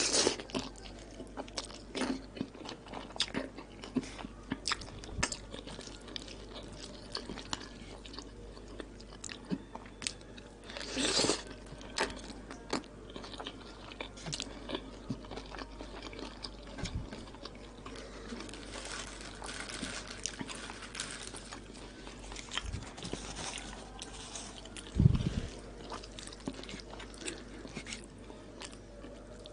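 Close-up wet chewing and biting of a mouthful of koshari, with scattered small crunches and clicks. A single low thump, the loudest sound, comes near the end.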